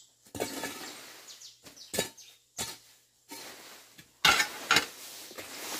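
Hand hoe chopping and scraping through weeds and soil: several strokes with scraping in between, the two loudest strikes half a second apart a little past the middle.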